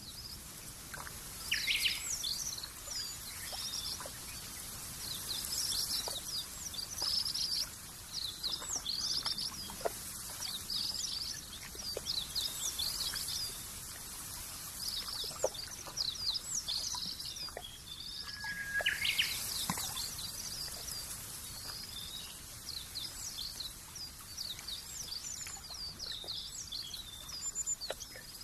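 A chorus of small birds chirping: many short, high chirps overlapping one another, with a couple of lower calls about two seconds in and again near nineteen seconds, over a faint steady hiss of outdoor ambience.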